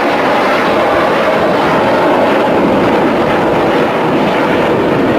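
Loud, steady jet noise from Red Arrows BAE Hawk T1 jets flying a display overhead.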